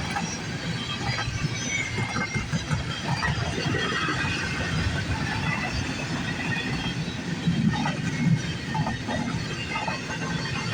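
CN container freight train rolling past at speed: a steady rumble and clatter of wheels on the rails, with faint high squeals now and then.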